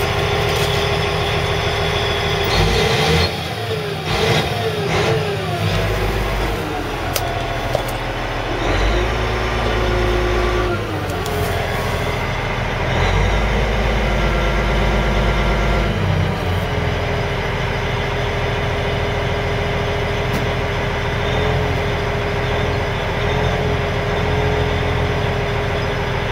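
Caterpillar 980G wheel loader's diesel engine running, its pitch swinging up and down about three to six seconds in and working harder twice for a couple of seconds, then settling into a steady idle.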